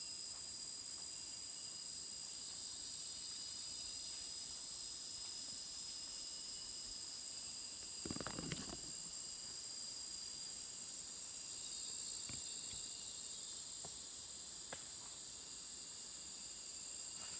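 Insects, crickets or similar, chirring in a steady high-pitched chorus. A brief rustle comes about eight seconds in, followed by a few faint clicks.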